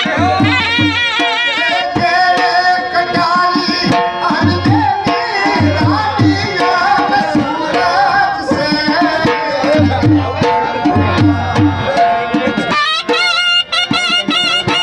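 Gujarati folk music: a sarnai, a shehnai-like double-reed pipe, plays a wavering, ornamented melody over groups of deep dhol drum strokes.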